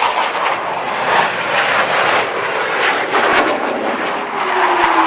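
Military jet flying past at an air show, a loud steady jet roar. Near the end a tone drops steadily in pitch as the jet passes.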